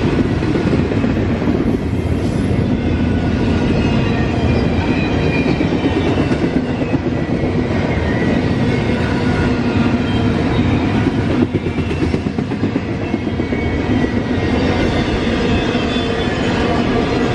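Freight cars of a Norfolk Southern manifest train rolling steadily past, wheels clacking on the rail with a faint wavering metallic whine from the wheels, and wind on the microphone.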